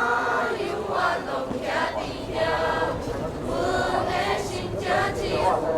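A choir singing in Taiwanese Hokkien (Minnan), with several voices together in phrases broken by short breaths.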